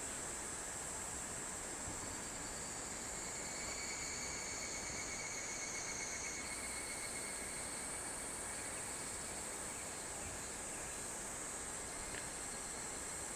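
Chorus of insects trilling steadily in several high, continuous tones over a soft, even hiss, with one of the high tones shifting pitch about halfway through.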